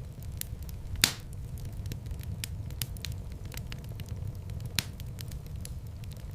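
Wood fire in a fireplace crackling: a steady low rumble of flames under scattered small crackles, with one sharp, loud pop about a second in and another louder pop later.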